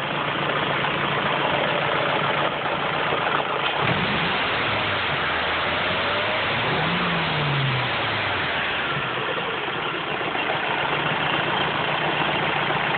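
Ford Focus engine running, blipped up briefly about four seconds in and revved up and back down again around seven seconds.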